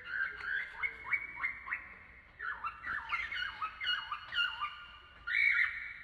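Cockatiel chirping: a quick run of short rising chirps, then a string of dipping, swooping calls, with a louder, longer call about five seconds in.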